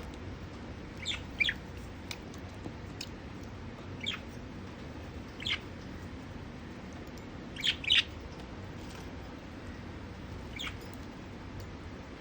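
Budgerigars chirping in short, sharp calls, about nine scattered through, including a quick pair near the middle, over a steady low background hum.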